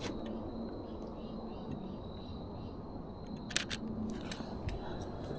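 A camera shutter fires with a quick double click about three and a half seconds in, over a low steady outdoor background hiss.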